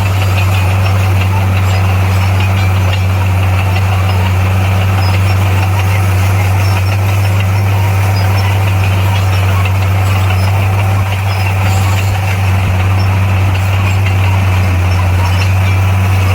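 Heavy earthmoving machine's diesel engine running at a steady speed: a constant low drone with mechanical clatter above it.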